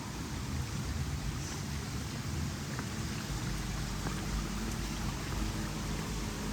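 Steady rain falling. Near the end the low hum of a motor vehicle's engine comes in and grows as it approaches.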